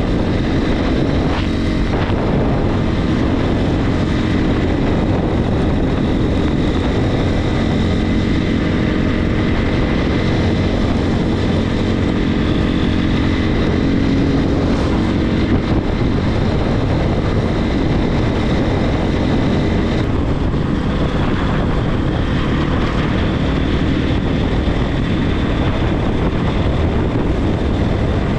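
Regulmoto TE enduro motorcycle engine running steadily under way, with wind rushing over the microphone.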